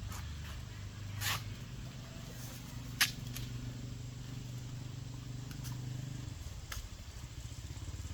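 A low, steady mechanical hum that changes pitch slightly about six seconds in, with a few sharp clicks or taps scattered over it.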